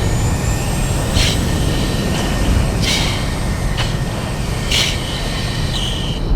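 Steady low roar of the F-16 cockpit during a hard high-G pull. About five short, sharp breaths come through it every second or two, typical of anti-G straining breathing.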